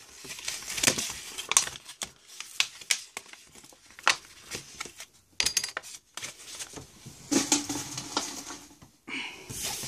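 Pokémon card packaging being torn open and crinkled by hand: irregular rustling and crackling with sharp little snaps.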